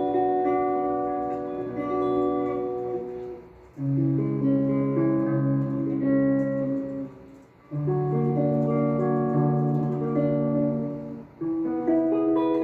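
Guitar playing three-note chords from the B melodic minor scale, each chord left to ring about four seconds; a new chord comes in about four, eight and twelve seconds in.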